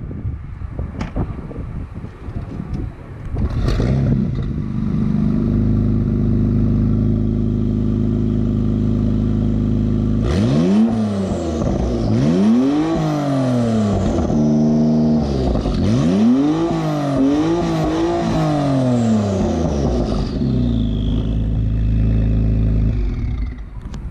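Second-generation Acura NSX's twin-turbo V6 fires up about four seconds in and idles, then is revved in a string of rising-and-falling blips for about ten seconds before dropping back to idle. The revs are high and popping.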